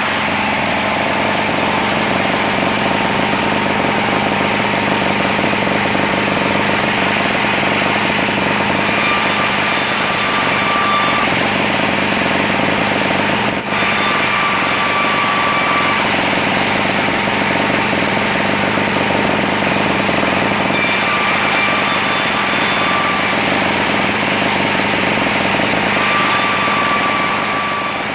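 Sawmill machinery running loud and steady, with a high whine that comes and goes several times, and a single sharp click about halfway through.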